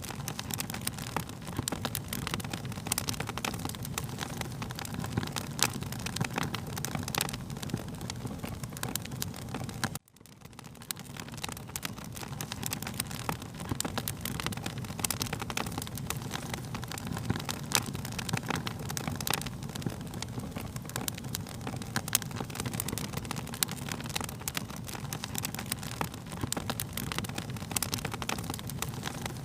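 Wood fire crackling, with frequent sharp pops and snaps over a steady low roar. About ten seconds in the sound cuts out abruptly and fades back in over a second or two, like a loop point in the recording.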